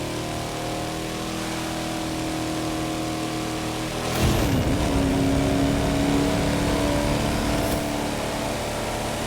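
Muscle car engine running steadily, then suddenly louder about four seconds in, its pitch dipping briefly before settling into a steady, louder note.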